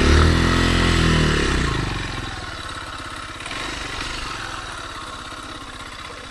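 Kymco KTR 150 motorcycle engine revving up and easing off in the first two seconds, then running steadily and more quietly.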